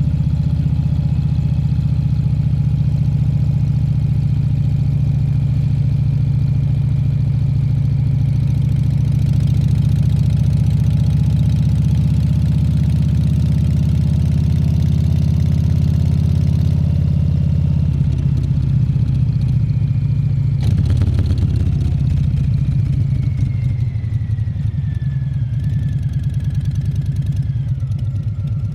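Harley-Davidson Fat Bob 114's Milwaukee-Eight 114 V-twin running steadily under way. About two-thirds of the way through, its low exhaust note turns into a choppier pulse, with a brief clatter, and it eases off slightly near the end.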